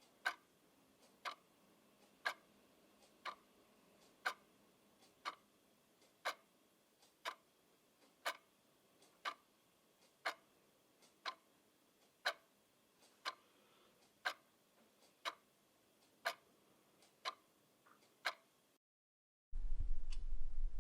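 Clock ticking steadily about once a second, louder ticks alternating with fainter ones. Near the end the ticking stops for a moment of silence, then resumes more faintly under a loud low hum.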